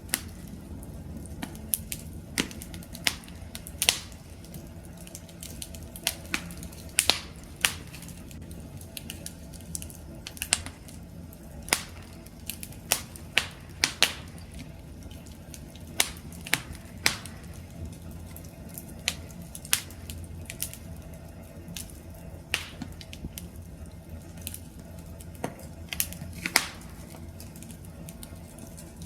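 Campfire of burning wood crackling: irregular sharp pops and snaps, some in quick clusters, over a low steady rumble of the flames.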